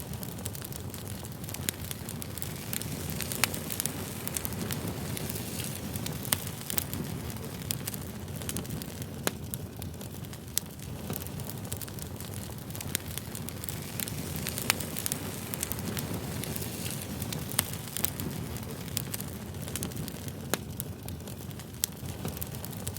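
Campfire burning: a steady low rumble of flames, with sharp crackles and pops from the burning wood coming at irregular moments, a few of them louder than the rest.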